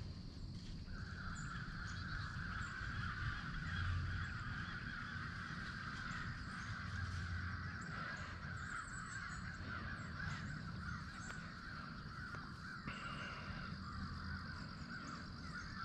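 Birds calling without pause, starting about a second in, over a low rumble.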